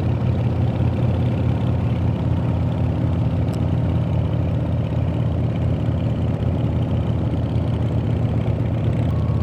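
Harley-Davidson V-twin motorcycle engine running steadily under way, pulling on a mountain climb.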